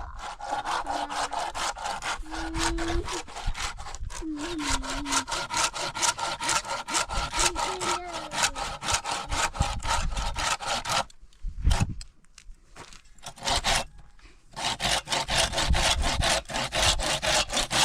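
Hand saw cutting through wood in quick, steady back-and-forth strokes. The sawing pauses for about three seconds partway through, then picks up again.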